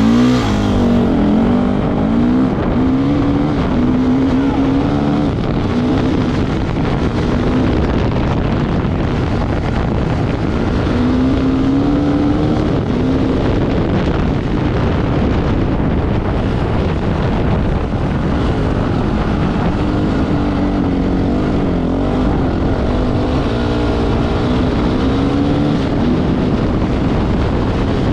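Off-road motorcycle engine running hard, its pitch rising and falling again and again with the throttle, over a steady rush of noise.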